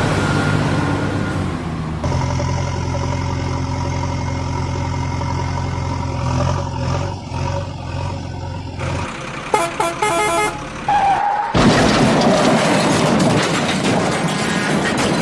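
A heavy vehicle's engine running steadily, then a horn honking in several short blasts about ten seconds in, followed by a loud, even rumbling noise.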